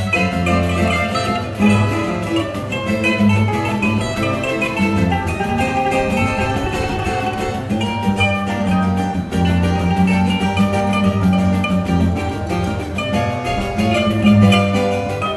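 Choro group playing an instrumental piece: a busy run of short melodic notes over a walking bass line.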